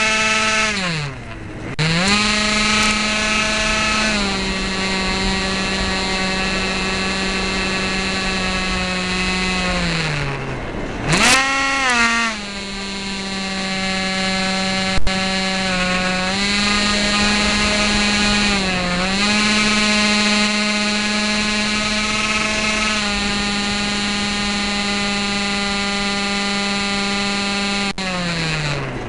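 Electric motor and propeller of a Dynam Hawk Sky RC plane running with a steady whine whose pitch sags and recovers several times: the motor dropping out and not answering the throttle.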